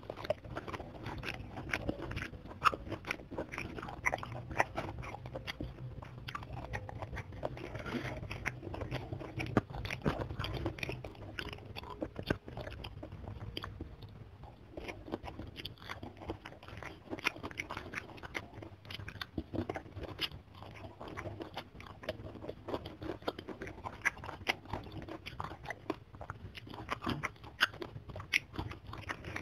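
Close-miked chewing and crunching of a mouthful of rice with crispy fried anchovies and petai beans, with many small irregular crunches throughout.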